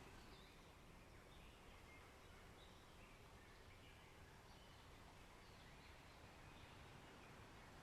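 Faint forest ambience: scattered short, high bird chirps over a low, steady hiss.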